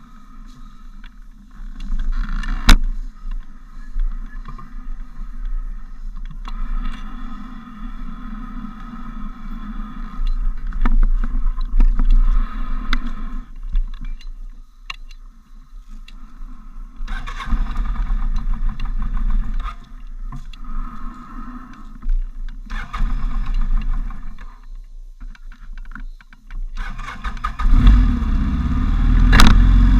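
Motorcycle engine running, with scattered clicks and knocks; its sound grows louder and fuller near the end.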